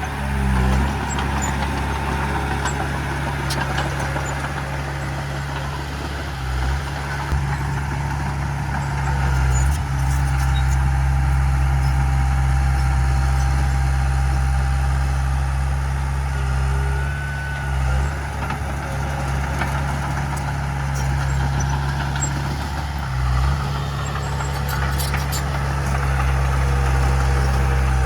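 Heavy diesel engine of earthmoving machinery, a bulldozer or dump truck, running steadily with a deep drone. Its note shifts briefly about four times.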